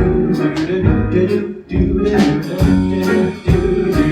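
Live jazz combo of piano, bass guitar and drums playing a rhythmic passage of accented chords punctuated by drum and cymbal hits.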